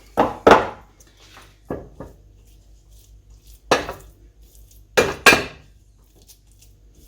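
A spoon knocking and scraping against a dish in a series of short clatters, several in pairs, as stiff maize-meal sadza is served and smoothed out.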